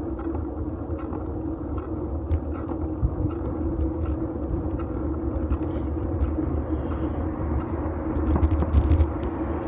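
Riding noise of a fixed-gear bike picked up by a phone in a bike-mounted metal holder: a steady rumble and hum from tyres and drivetrain, with scattered ticks and knocks from bumps, thickest near the end.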